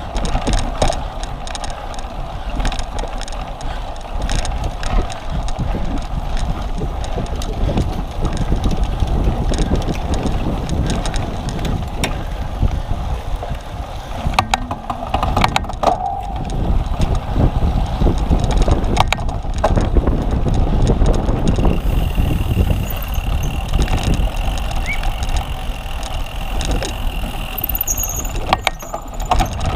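Cyclocross bike ridden hard over rough ground: a continuous rumble of tyres and wind against the microphone, with a few sharp knocks and rattles from the bike over bumps, loudest around the middle and near the end.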